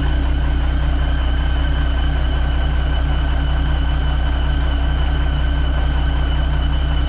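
1987 Ford L8000 turbo diesel engine idling steadily, with a faint steady high whine over the low diesel hum, while its air system builds pressure toward the 60 needed to release the brakes.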